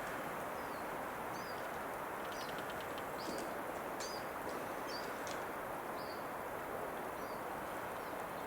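Small birds chirping in short, separate calls, with a quick trill about two and a half seconds in, over a steady rushing background noise.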